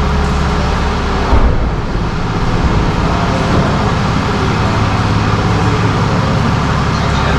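Vehicle engine running steadily as a low drone, with one brief knock about a second and a half in.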